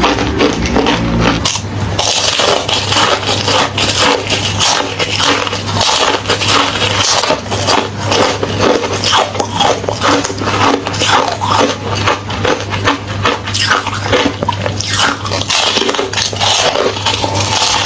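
Close-miked chewing of crunchy hollow ice: rapid, dense crackling crunches as the thin shells break between the teeth, over a steady low hum.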